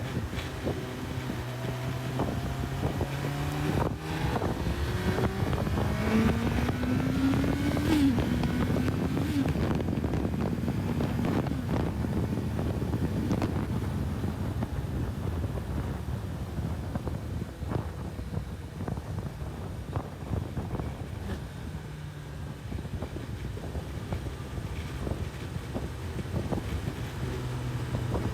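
Honda CB1000R inline-four engine accelerating, its pitch climbing for a few seconds and broken by quick gear changes, then settling into a steady cruise. Wind buffets the microphone throughout.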